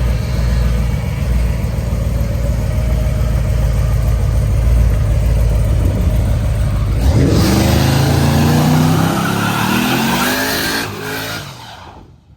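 Twin-turbo LS3 V8 in a 1948 DeSoto running with a steady low rumble, then about seven seconds in it accelerates hard, its pitch climbing for a few seconds before the sound fades away near the end.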